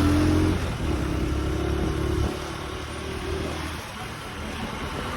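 Motor vehicle engine running steadily while driving along, with road and wind noise. The engine note is louder for about the first two seconds, then drops as it eases off.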